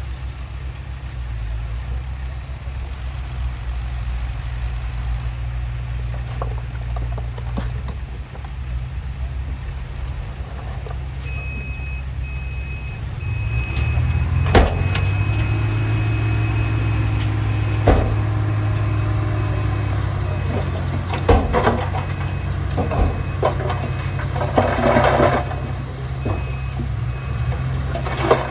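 Diesel engines of heavy earthmoving machinery running, the rumble growing louder about halfway through as a machine works closer. A reversing alarm starts beeping evenly about a third of the way in and keeps on, with a few sharp metallic clanks in the second half.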